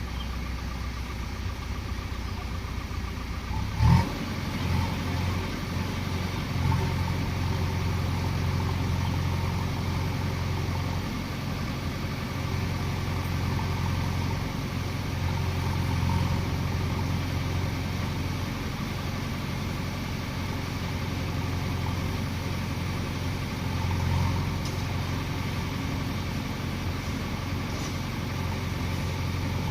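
Diesel engine of earthmoving machinery running steadily, with one sharp knock about four seconds in. The engine picks up slightly soon after and holds at that level.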